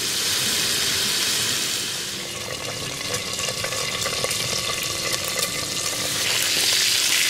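Bacon sizzling and crackling in hot fat in a cooking pot over a campfire, growing louder about six seconds in.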